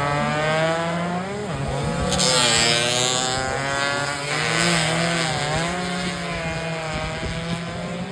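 Racing motorcycle engines revving hard, several at once, their pitch rising and falling through gear changes; one gets louder and brighter about two seconds in as it passes close.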